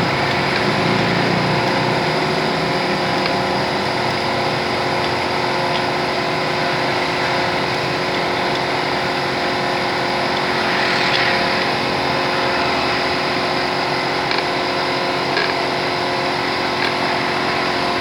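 A motor-driven machine running steadily, a constant mechanical drone with a brief louder swell about eleven seconds in.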